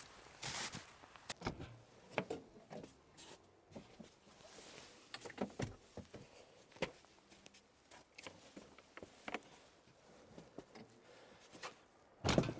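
Scattered small knocks and clicks of objects being handled, with one louder thump near the end.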